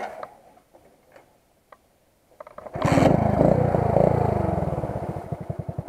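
Motorcycle engine starting: a few light clicks, a short crank, then it catches about three seconds in and runs loud. It falls back to a steady, even idle.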